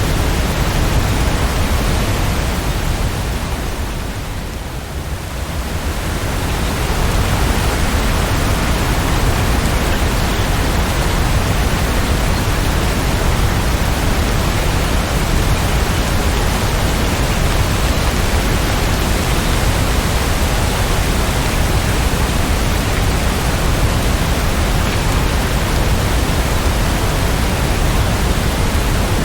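Steady, heavy rainfall: a dense, even hiss of falling rain with no separate drops or rhythm. It softens briefly about four to five seconds in, then returns to full strength.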